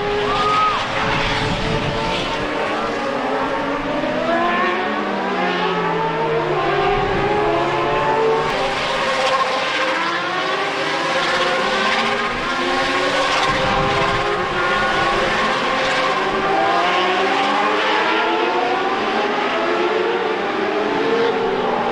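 Several car engines running together, their pitches rising and falling and crossing one another as they rev and pass.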